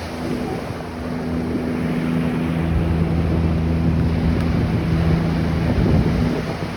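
Ocean surf washing on a beach with wind buffeting the microphone, and a steady low engine hum running underneath.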